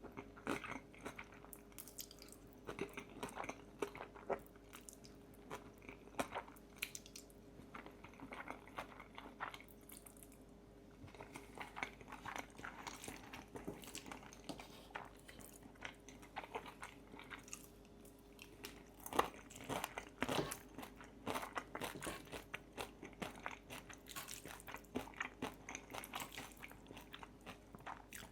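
Close-miked eating: chewing and crunching mouthfuls of pesto fettuccine with crispy bacon, many short sharp crunches and mouth clicks, with a couple of quieter spells.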